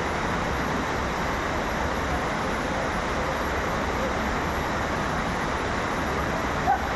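Waterfall and river water rushing, a steady, even noise, with a faint brief voice near the end.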